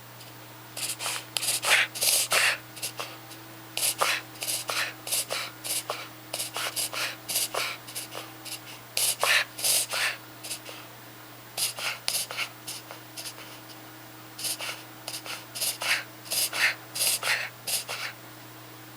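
Small puppy's paroxysmal breathing episode: runs of quick, noisy breaths, several a second, broken by short pauses. The owner asks whether it is a reverse sneeze or a lingering cough.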